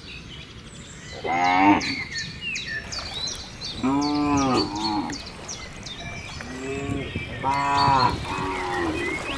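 Cows mooing: several drawn-out moos a few seconds apart, each about a second long.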